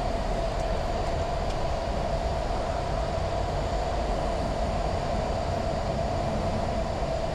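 Steady cockpit noise of a Boeing 737 MAX 8 in its initial climb after takeoff: engines at takeoff thrust and rushing air, an even hum with one steady mid-pitched tone running through it.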